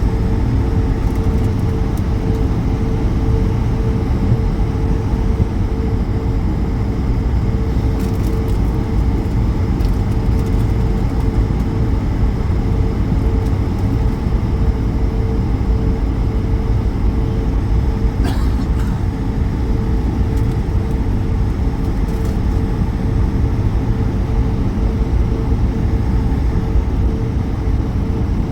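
Airbus A220 cabin noise: a steady, loud rumble from the jet's geared turbofan engines and airframe, with a steady hum tone over it and a few faint clicks and rattles.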